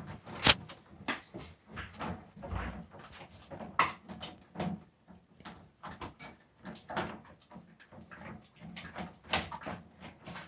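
An animal chewing and gnawing: irregular crunching clicks throughout, with a sharp, louder click about half a second in and another near four seconds.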